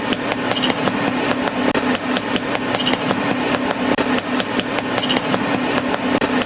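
An engine running steadily at an even speed, a constant low hum with rapid, regular ticking.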